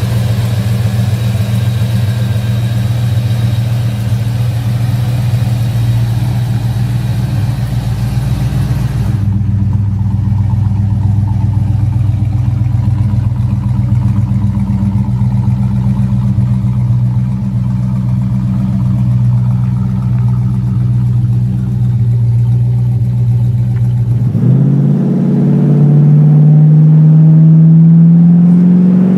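Muscle car engine running at a steady low idle, then revving up near the end with a rising pitch. The sound changes abruptly twice, as if cut between different cars.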